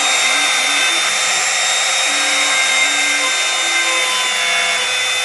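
Homemade CNC router's motor running steadily with a 1/8-inch spiral O-flute bit cutting 1/4-inch aluminum on a roughing pass. Short low tones that step in pitch every half second or so come from the stepper motors moving the axes.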